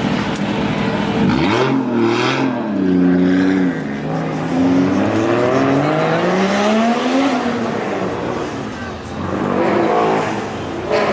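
A high-performance car engine revs up and accelerates. Its pitch climbs, breaks off about four seconds in as if at a gear change, climbs again, then falls away.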